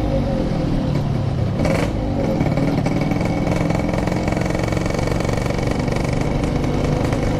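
Motorcycle engine running under way as the bike is ridden, its note changing briefly about two seconds in and then holding steady.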